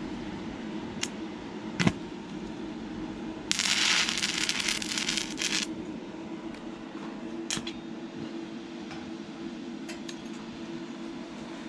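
Stick welding with a 6011 rod on thin, rusty metal: a couple of sharp taps as the rod is struck against the work, then the arc catching and crackling for about two seconds before it breaks off, followed by a few lighter ticks. A steady low hum runs underneath.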